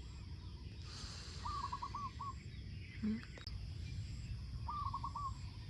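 A bird calling twice, about three seconds apart, each call a quick phrase of four short notes, over low outdoor background noise.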